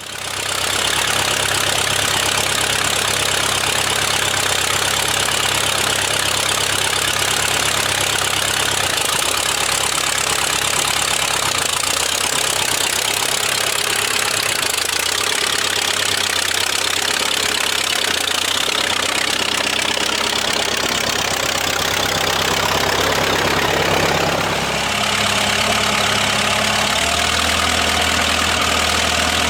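A farm tractor engine that has sat unused for a month or two catches at once and keeps running, loud and steady. Its engine note shifts about a third of the way in and again near the end.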